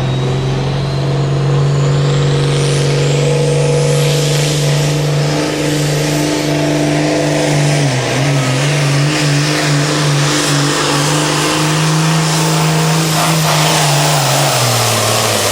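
Turbocharged diesel pulling tractor running flat out under load, with a high turbo whine that climbs over the first few seconds. The engine pitch sags and recovers about halfway through, then falls away near the end as the throttle comes off.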